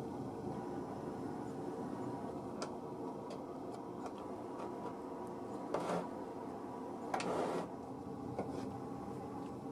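Proxxon mini table saw's small motor running steadily, with scattered light clicks and two short bursts of noise, one just before six seconds in and a longer one a little after seven seconds.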